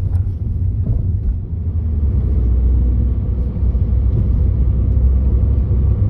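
Steady low road rumble inside the cabin of a 2013 Mini Cooper S on the move, with a few faint light clicks about the first second and a half.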